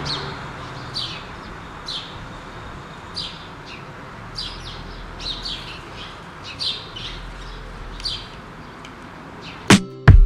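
A small bird chirping repeatedly: short, high, falling chirps about once a second over a steady background hiss. Guitar music cuts in near the end.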